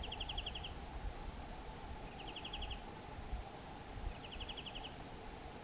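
Birds calling: a short, fast trill of about eight notes, repeated three times about two seconds apart, with a few faint, very high, thin chirps in between.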